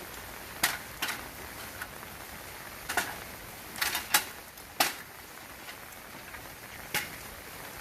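Steady rain noise with scattered sharp clicks and knocks, about seven in all, the loudest about four seconds in.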